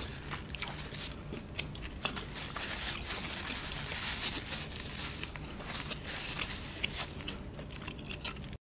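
Close-miked chewing of roast lamb leg: irregular soft wet mouth clicks and smacks. The sound cuts out completely for a moment near the end.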